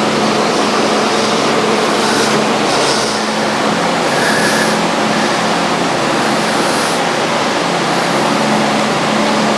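A motor-driven shop machine running steadily: a constant loud rushing whir over a low hum, with no change in speed.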